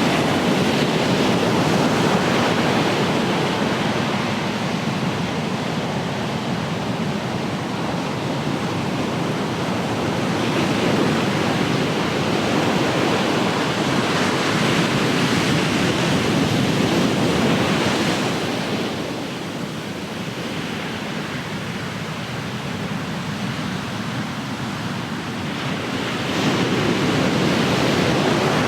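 Ocean surf: waves breaking and washing ashore in a continuous rush of noise. It eases for several seconds about two-thirds of the way through and builds again near the end.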